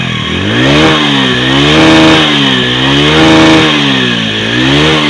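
Hero Splendor iSmart 110 cc motorcycle's single-cylinder four-stroke engine revved repeatedly with the throttle. The pitch climbs and falls about four times and is held high twice for about half a second.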